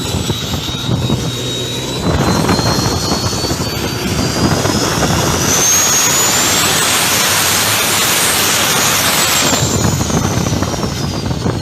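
Turbocharged diesel engine of a longtail racing boat running hard, with a high turbo whistle that climbs about three seconds in, holds, and falls away near the end.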